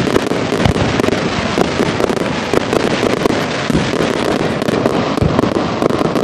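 Aerial fireworks display: a dense, steady stream of crackling and popping from bursting shells, with a few deeper booms among them.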